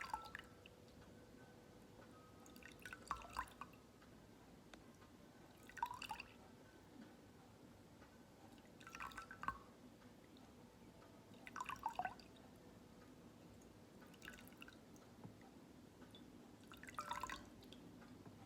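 Water dripping and trickling in short, faint splashes, a small cluster of drops about every three seconds.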